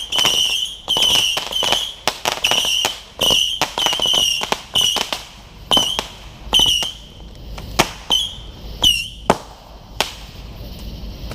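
Saturn missile battery firing a rapid volley of whistling missiles: short high whistles, several a second, each with a sharp pop or crack. The shots thin out and stop about ten seconds in.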